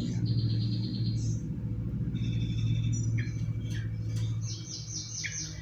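Young yellow-vented bulbuls chirping in several quick, high-pitched runs, over a steady low hum.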